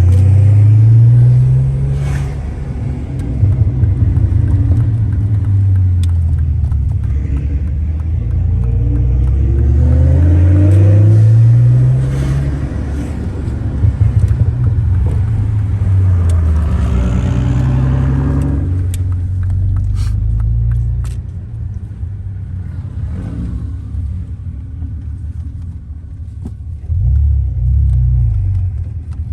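Big-turbo car engine under hard acceleration. The revs climb several times and drop back between pulls, then it settles to quieter, steadier running for roughly the last third.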